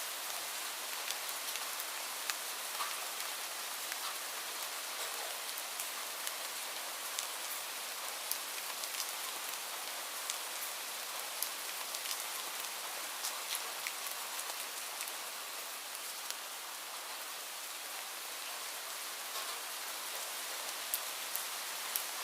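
Steady rain falling, a continuous hiss with frequent individual drops ticking on surfaces.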